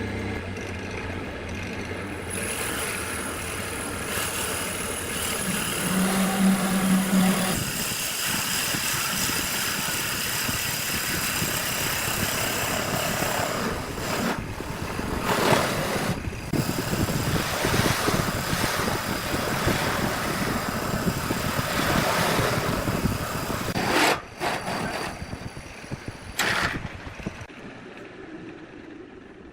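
Power woodworking machinery running continuously as wood is worked, a steady motor noise with rough cutting sound over it, fading out near the end.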